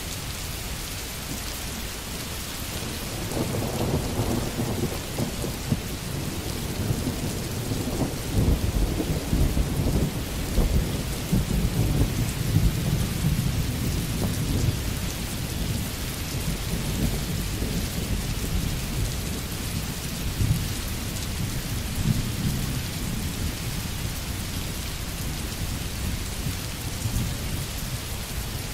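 Recorded rain sound effect: steady rain with a long rolling rumble of thunder that builds about three seconds in, is strongest through the middle and fades away in the second half.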